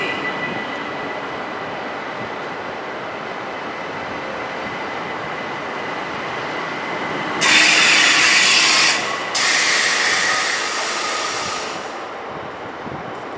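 A train running in a station, with a steady rumble and a thin high whine that fades within the first second. About seven and a half seconds in come two loud hisses of escaping air in quick succession, the first about a second and a half long and the second about two and a half, typical of a train's compressed-air brake system venting.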